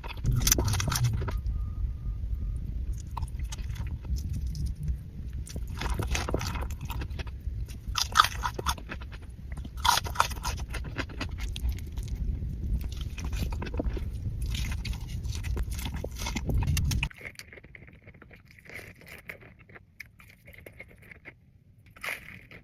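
Close-miked eating: biting into and chewing fast food, with repeated short crunches and wet mouth sounds. A low rumble runs under the chewing and stops suddenly about seventeen seconds in, leaving quieter, scattered mouth clicks.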